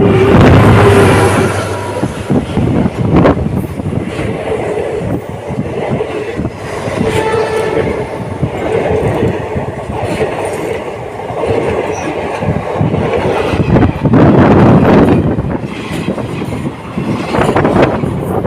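A train passing close by for the whole stretch, a loud rumble with its wheels clattering over the rails. Its horn trails off in the first second.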